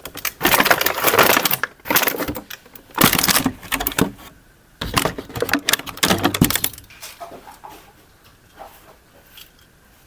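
Toy packaging being handled and torn open: several loud bursts of crinkling and tearing, then only light clicks and taps from about seven seconds in.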